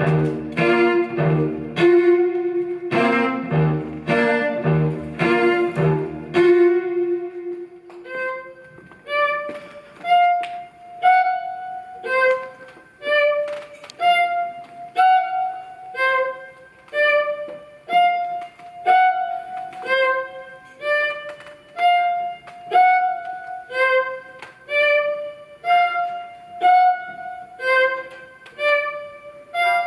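Live instrumental chamber music: bowed strings play rhythmic strokes over a low pulse, and about six seconds in the texture thins to a steady repeating figure of short, ringing notes.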